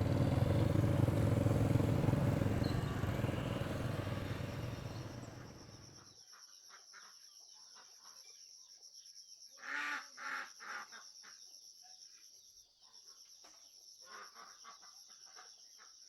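A motor vehicle's engine runs close, fading over the first five seconds and dropping away about six seconds in. After that, a chicken clucks in three short bursts about ten seconds in, over steady high insect trilling.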